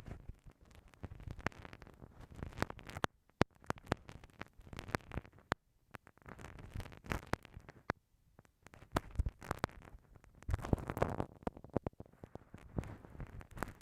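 Bamboo ear pick scraping and rubbing inside the ear of a binaural microphone, in irregular scratchy strokes broken by sharp clicks and taps.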